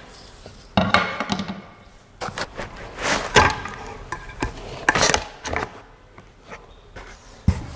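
Machine parts being handled and lifted out of packaging: rustling and scraping with scattered knocks, and a sharp thump near the end.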